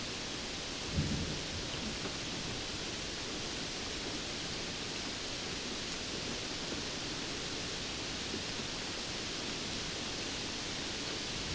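Steady rainfall hissing evenly, with a brief low thump about a second in.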